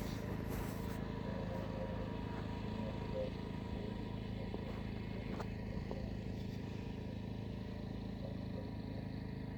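An engine running at a steady low hum, with no change in speed.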